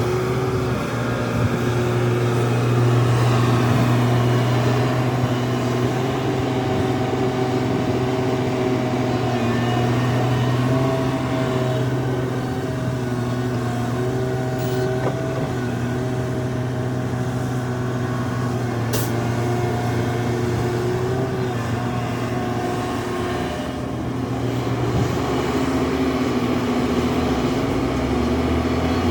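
Heavy diesel engines of earthmoving machinery, an excavator and dump trucks, running steadily under work, with the engine note rising and falling slightly. A brief sharp click comes about two-thirds of the way through.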